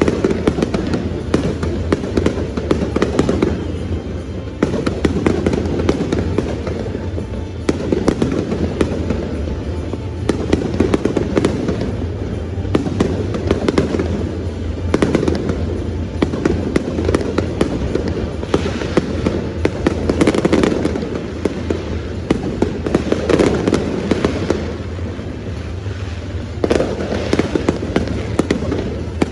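Fireworks show: shells bursting and crackling in rapid, continuous succession, over music played through loudspeakers.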